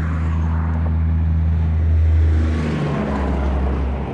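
A vehicle engine running with a steady low hum, swelling in loudness around the middle; its pitch shifts a little under three seconds in.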